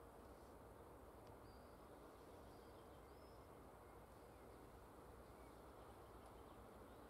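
Near silence: a faint steady background hiss with a few faint, short, high bird chirps in the first half.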